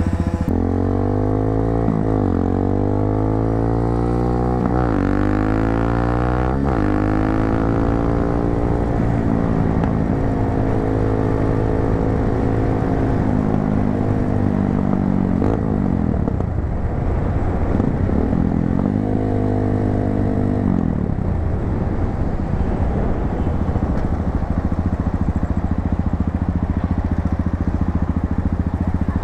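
250cc motorcycle with an aftermarket muffler accelerating through the gears. The exhaust note rises and drops back at upshifts about two, five and seven seconds in, then runs at a steadier cruise with a couple of brief dips and pick-ups of the throttle.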